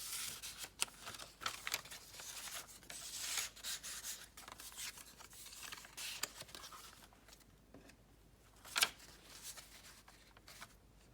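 Paper rustling as the pages and loose paper pieces of a handmade junk journal are handled and turned by hand, with a sharper click about nine seconds in.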